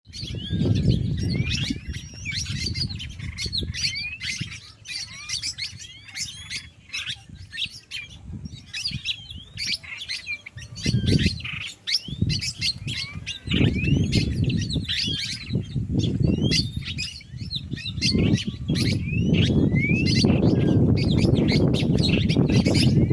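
Many birds chirping and calling at once from a tree, a dense overlapping chatter of short high chirps and quick rising and falling whistles. A low rumbling noise comes and goes underneath and grows steadier near the end.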